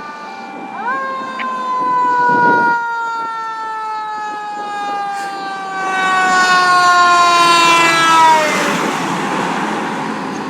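Fire engine siren responding code 3: its pitch climbs quickly about a second in, then falls slowly and steadily for several seconds before dropping away near the end, with a rush of road and engine noise swelling as it fades.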